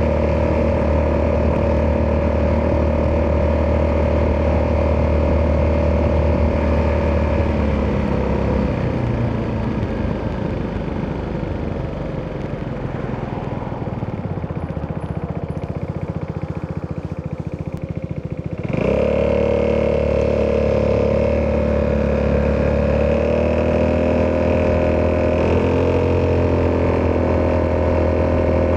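Italjet Dragster 200 Malossi Edition's single-cylinder four-stroke engine running through an Akrapovic exhaust under way. It holds a steady note, then eases off about eight seconds in, its pitch falling and the sound quietening for some ten seconds. It then comes back in sharply on the throttle and runs steady again, stepping up a little twice near the end.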